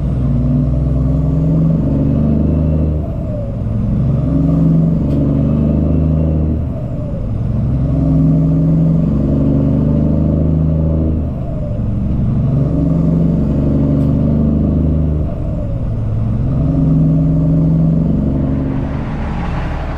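Cummins ISX diesel engine of a Peterbilt 379 truck running under way, a steady heavy drone whose loudness dips briefly and whose pitch pattern changes every few seconds.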